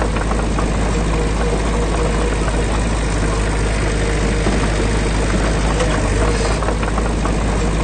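Heavy diesel engine of earthmoving machinery running steadily, with a stream of small ticks over it.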